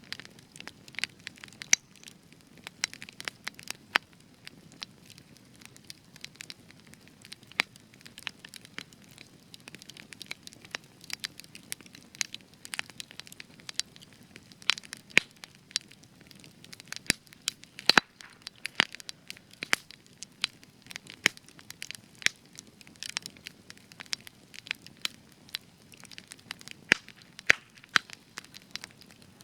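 Spruce wood burning in a campfire, crackling and popping irregularly over a low steady hiss, with one especially sharp pop about two-thirds of the way through. Spruce gives extra crackle.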